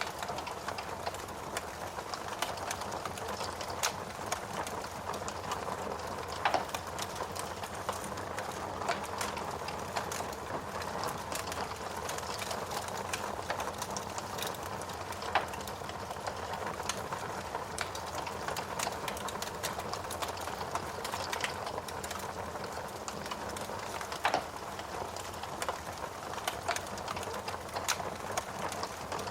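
Fire burning in a fireplace: a steady hiss with frequent small crackles and a few louder pops.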